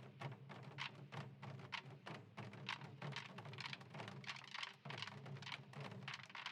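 Faint, rapid stick taps from a samul nanta percussion group, several sharp clicks a second in an uneven rhythm, over a steady low hum.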